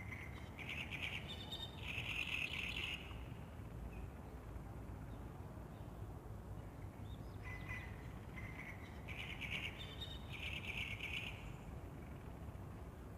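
A songbird sings two phrases about seven seconds apart. Each is a few short notes running into a dense trill, over a steady low background rumble.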